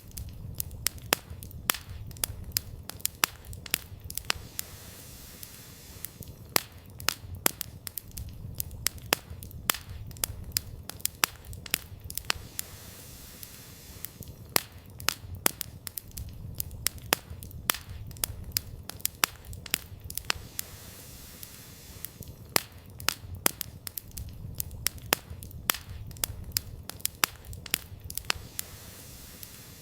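Campfire burning: firewood crackling with frequent, irregular sharp pops over a low rumble.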